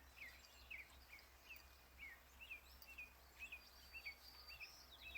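Faint backyard birdsong: one bird repeating short chirps a few times a second, with scattered higher notes from other birds, over a low steady hum.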